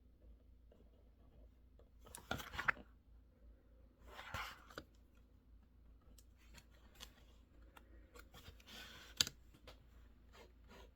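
Faint scratchy strokes of writing on paper in three short spells, about two seconds in, four seconds in and near nine seconds, with scattered light clicks in between.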